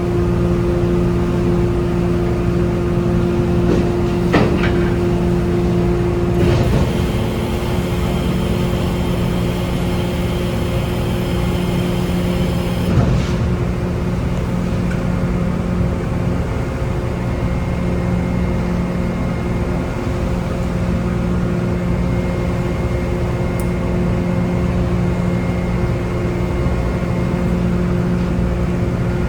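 Engines of a passenger boat running steadily, heard on board as a constant hum. A few short knocks sound over it, the last about halfway through.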